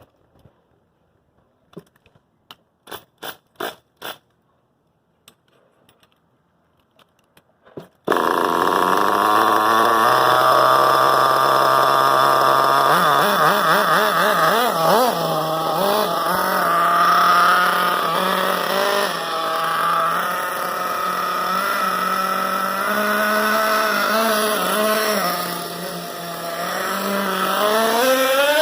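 A few sharp clicks, then about eight seconds in the XTM 457 nitro engine of an RC truck sounds out suddenly and runs, its pitch wavering and rising and falling as it is revved, with a rising rev near the end.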